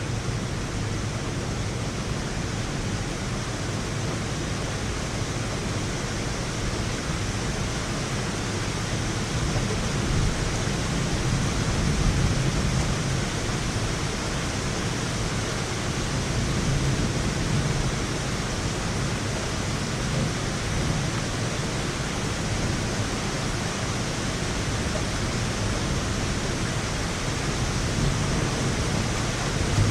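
Heavy rain falling in a steady hiss, swelling a little in strength about a third of the way in.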